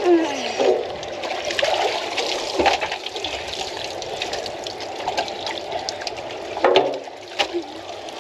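Water splashing and trickling around the boat, with a few short louder splashes.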